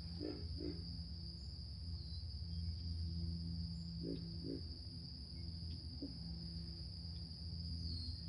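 Insects calling in a steady, high-pitched, unbroken drone, over a low steady hum.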